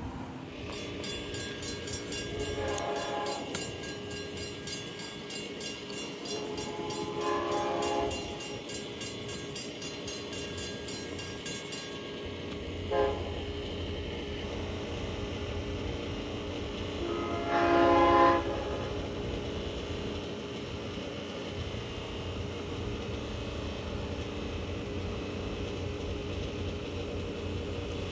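Train horn sounding the grade-crossing signal, two long blasts, one short and one final long, the standard warning for a train approaching a road crossing. A bell rings rapidly through the first two blasts and stops about halfway, and a low steady rumble of the train comes in after the short blast.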